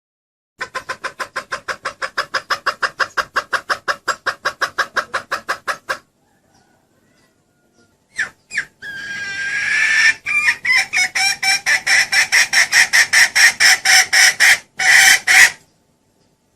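Female junglefowl clucking in a fast, even series of about seven calls a second, lasting about five seconds. After a two-second gap comes a drawn-out call, then another fast run of clucks that stops abruptly near the end. This is a hen call of the kind played to draw junglefowl cocks in.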